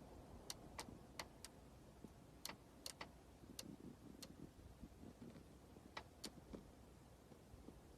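Near silence with about a dozen faint, sharp ticks at irregular spacing, bunched in the first half and again around six seconds in.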